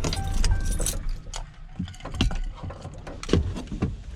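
Diesel tow truck's engine running low, dropping away about a second in, with two short beeps near the start. Scattered clicks and knocks follow.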